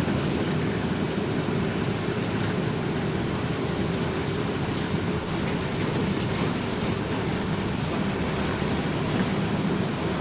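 Bus cabin noise while driving: steady engine and road rumble with a faint high whine and a few light ticks and rattles.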